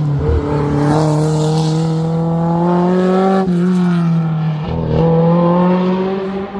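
Racing car engine pulling hard under acceleration, its pitch climbing steadily, with an upshift about three and a half seconds in and another about five seconds in, after each of which the note climbs again.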